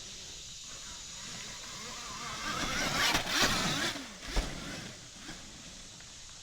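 A dirt bike riding past, building up and fading away over a couple of seconds with its pitch bending as it goes by, loudest in the middle. A short thump comes just after the pass.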